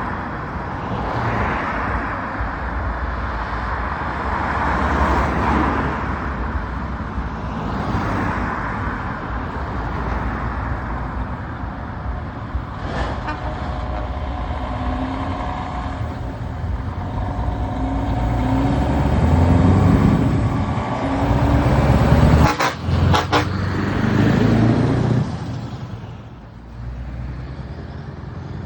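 Heavy trucks' diesel engines pulling away and accelerating past, the pitch climbing through the gears and loudest about three quarters of the way in, with a few sharp cracks in the middle of that loudest stretch; some of the trucks run open exhaust pipes.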